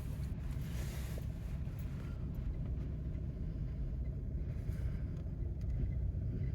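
Car engine and tyre noise while driving slowly, a steady low rumble.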